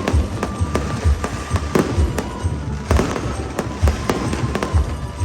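Fireworks display: aerial shells bursting in a rapid, irregular run of sharp bangs and deep booms, with music playing underneath.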